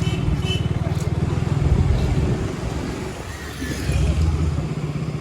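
KTM Duke 200 single-cylinder engine running on the move, easing off around three seconds in and picking up again about a second later.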